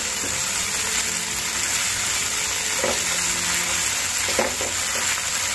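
Ginger–green chilli paste, cumin seeds and curry leaves sizzling in hot ghee in a nonstick pan, a steady frying hiss, being stirred with a spatula that scrapes the pan now and then. The paste is being sautéed until its rawness cooks out.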